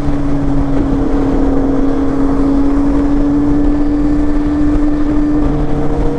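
Kawasaki Z800's inline-four engine running at a steady pitch while the bike cruises at constant speed, over a low rumble of wind and road noise.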